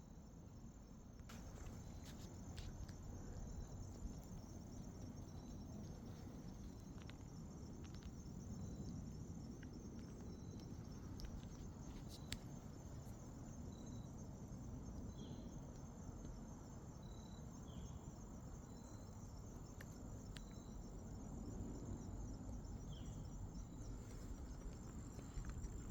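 Crickets and other insects trilling steadily, with short high chirps repeating every second or two and a few faint clicks over a low outdoor rumble.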